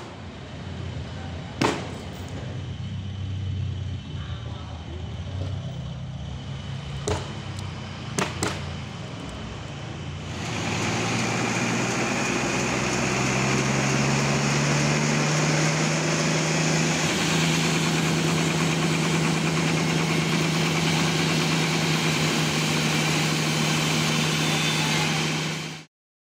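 Sawmill engine running steadily with a few sharp knocks. About ten seconds in it gets louder and a loud hiss joins the engine tone, which rises and holds steady, as of the saw cutting through a trembesi (rain tree) log. The sound cuts off abruptly near the end.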